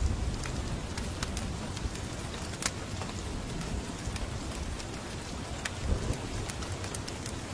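Steady rain with scattered sharp fire crackles from a fireplace, one louder snap a little over two and a half seconds in, and a brief low rumble near the end.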